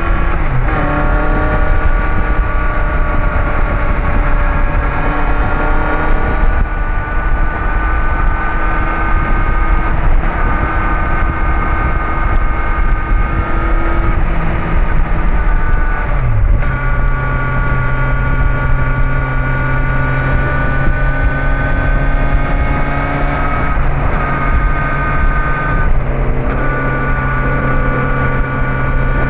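Kawasaki Z900's inline-four engine running while riding at steady speeds. The pitch holds and then steps to a new level several times, over a constant low rush of wind and road noise.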